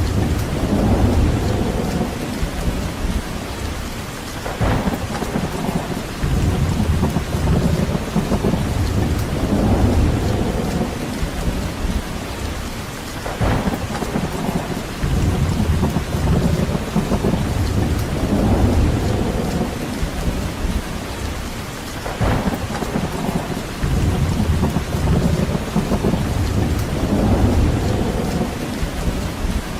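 Steady rain with wind, a continuous hiss under a deep rumble that swells and fades every four to five seconds.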